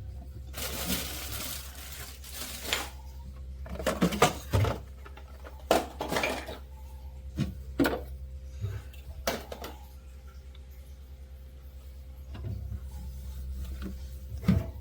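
Refrigerator shelves and containers knocking and clinking as they are handled during cleaning: about a dozen sharp, irregular hits, after a short stretch of rubbing about a second in.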